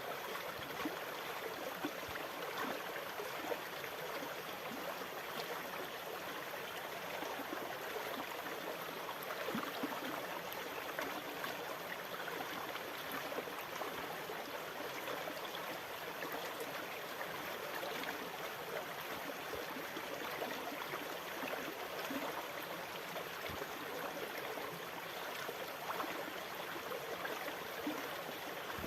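Continuous running water: an even rushing hiss with small trickling and gurgling flickers, holding steady without distinct wave surges.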